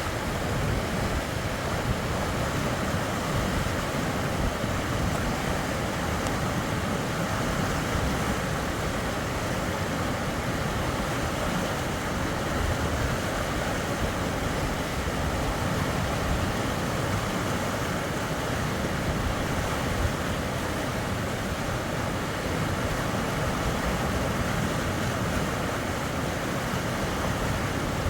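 Steady rush of fast-flowing river water, even throughout with no distinct events.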